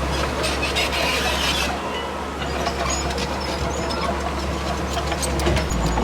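Heavy diesel earthmoving machinery running with a steady low drone, with scattered clanks and rattles. A stretch of hissing noise comes in the first second or two.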